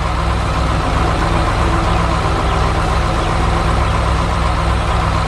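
Large vehicle engine idling steadily, holding one even pitch without revving.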